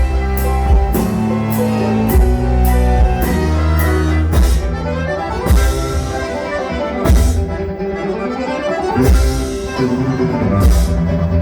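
Live bluegrass-style cover band playing a metal song, with steady low bass notes. Cymbal or drum strikes come about every 0.6 s for the first few seconds, then thin out to occasional hits.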